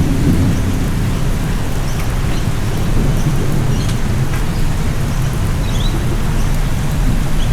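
Heavy rain falling steadily under a continuous low rumble of thunder, with a few faint high chirps.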